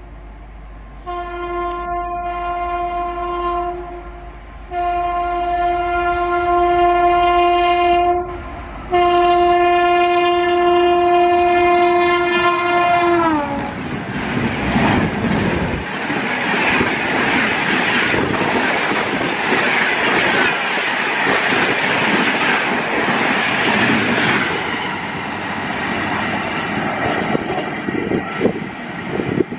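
Shatabdi Express passenger train approaching at speed with its locomotive sounding three long horn blasts. The horn's pitch drops sharply as the locomotive passes, about thirteen seconds in. The noise of the coaches speeding past follows and fades near the end.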